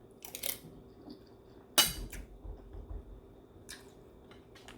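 Cutlery clinking and scraping against a plate while eating, in a handful of separate clinks; the loudest comes about two seconds in.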